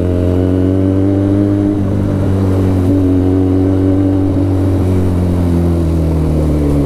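Benelli TNT 300's parallel-twin engine running through an Ixil full-system aftermarket exhaust while riding. The exhaust note is steady and loud, easing down slightly in pitch over the first couple of seconds and then holding.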